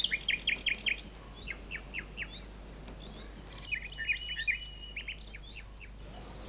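Small birds chirping: rapid series of short, high, downward chirps, in one dense bout at the start and another about four seconds in, over faint steady low background noise.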